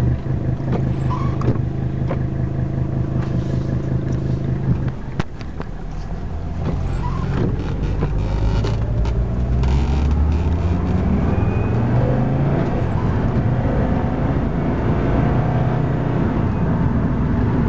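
1983 Mercedes-Benz 300D's OM617 five-cylinder turbodiesel pulling the car away and accelerating. It runs steady for a few seconds, dips briefly, then rises in pitch through the gears, with scattered creaks and clicks.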